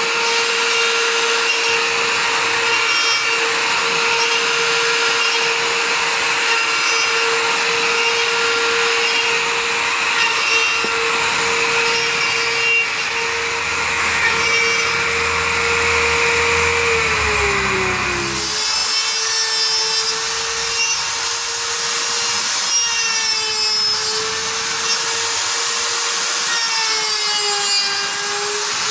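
Router motor running at high speed while its bit planes rough-sawn lumber in a skip-planing jig, a steady whine with the rasp of wood being cut. About two-thirds in the whine sags in pitch, then comes back and wavers slightly as the cut goes on.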